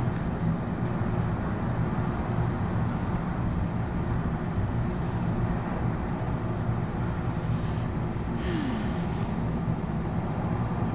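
Steady low hum of a cruise ship's bow thruster and machinery as the ship is pushed against the dock. A brief hiss comes about eight and a half seconds in.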